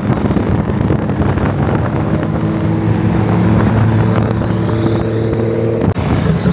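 Car engine running steadily at close range, its pitch creeping slowly upward. About six seconds in it breaks off abruptly and another engine with a faint high whine takes over.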